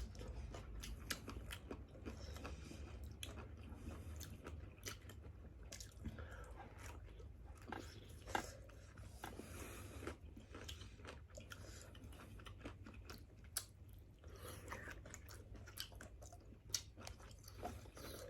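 People eating at a table: faint chewing, with many small clicks and taps scattered throughout.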